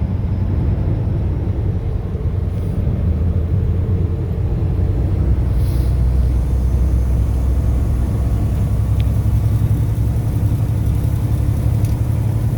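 Steady low engine and road rumble of a moving truck, its pitch shifting slightly a few times.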